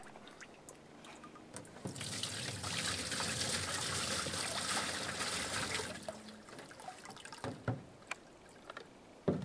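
Water trickling and splashing for a few seconds, then quieter, with a few small knocks and a sharp thump near the end.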